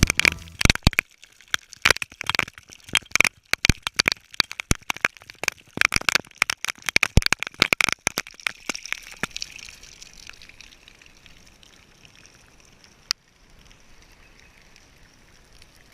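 Dense, irregular crackling and popping for about nine seconds. It then thins out into a faint hiss, with one last sharp click near the end.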